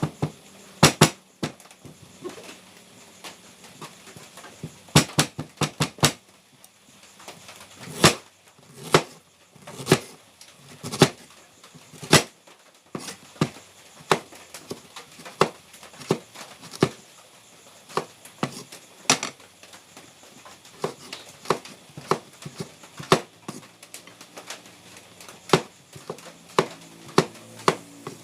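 Kitchen knife slicing through ingredients and knocking on a chopping board: sharp, irregular knocks, some in quick runs of two or three and others about a second apart.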